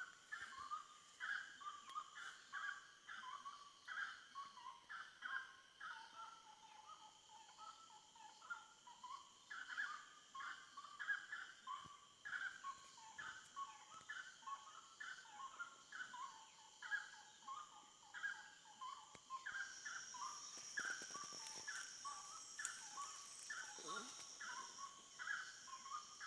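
Faint forest chorus: short animal calls repeating a few times a second over a steady high insect trill. A second, higher insect tone joins about twenty seconds in.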